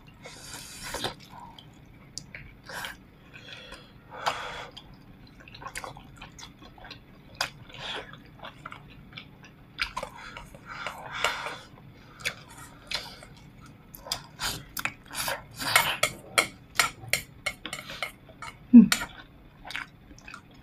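Someone eating braised pork ribs: chewing and smacking, with chopsticks and bowls clicking now and then, and one short low hum near the end.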